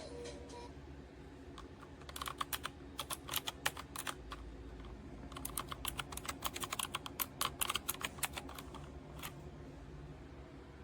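Keys being typed on a Camiysn typewriter-style mechanical keyboard, with quick clicking keystrokes. There are two runs of typing, a short one about two seconds in and a longer one after a brief pause.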